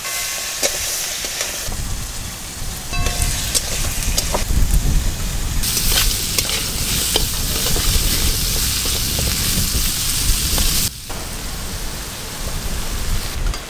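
Crabs sizzling as they fry in hot mustard oil in a wok, with a spatula scraping and clicking against the pan as they are stirred.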